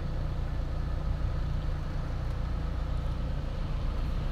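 Chevrolet Spark's engine idling with the air conditioning running, heard from inside the cabin: a steady low hum under an even rush of air from the blower. The rebuilt AC system, with its new compressor and condenser, is now working and blowing cold.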